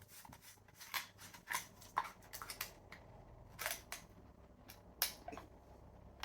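Scattered light clicks and taps, about half a dozen, from tea things being handled while milk is added to a cup of tea; the sharpest come a little after halfway and about five seconds in.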